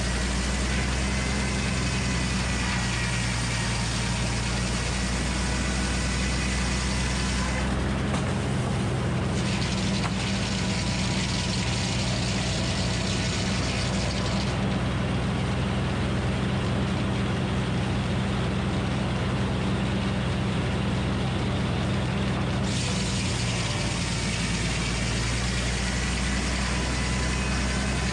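Minneapolis Moline HEB 605 cubic inch engine running steadily as the power unit of a Frick circular sawmill, with a faint high steady whine above it.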